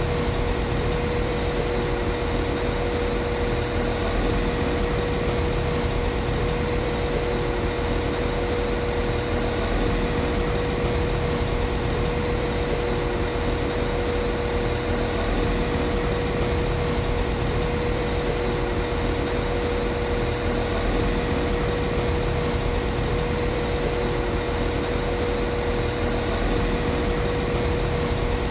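Class 195 CAF Civity diesel multiple unit's engine idling steadily: an even low rumble with a constant steady hum over it.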